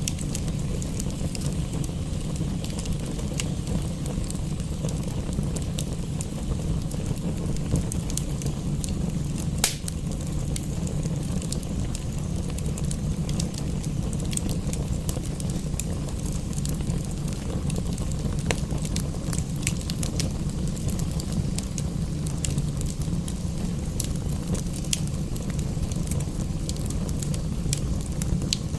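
Wood fire crackling in a fireplace, with frequent sharp pops and one louder pop about ten seconds in, over a steady low rumble and the even hiss of rain.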